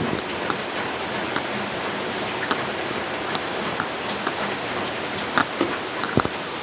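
Steady rain falling, with scattered drops tapping on a surface and a few sharper, louder taps near the end.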